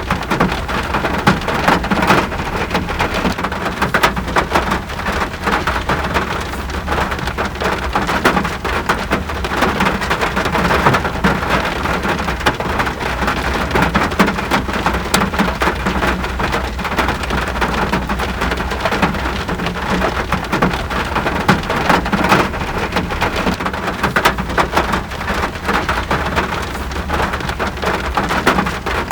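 Steady rain falling, a dense, continuous hiss of many small drops pattering on surfaces, with a steady low rumble underneath.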